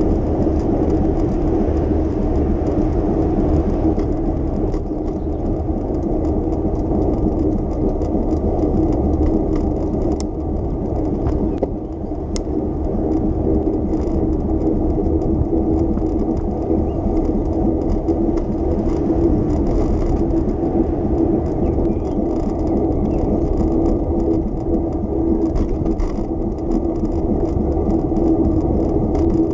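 Steady rolling noise of a bicycle ride on city streets: a constant whir with a low rumble underneath. A couple of sharp ticks sound around the middle.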